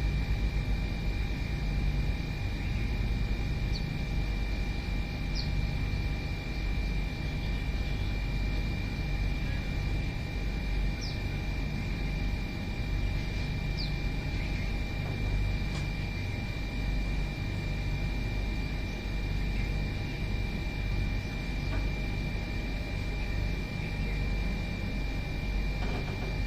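A steady low rumble with a thin, steady high-pitched hum, and a few faint, very short bird chirps scattered through it.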